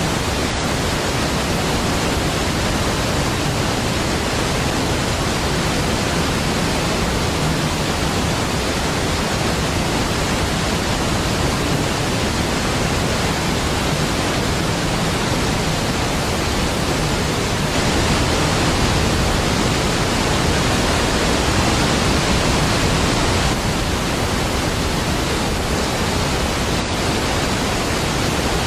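Steady rushing noise of a large waterfall, even across low and high pitches, growing a little louder for several seconds past the middle.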